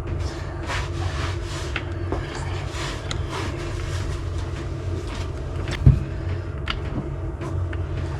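Small clicks and rubbing from hands working the oil filler cap back onto a Yamaha PW50 mini dirt bike, with one loud thump about six seconds in, over a steady low hum.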